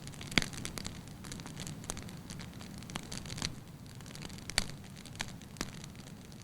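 Wood fire burning in a fireplace: a steady low rumble of flames with irregular sharp crackles and pops from the burning logs, the loudest pop about half a second in and another near four and a half seconds.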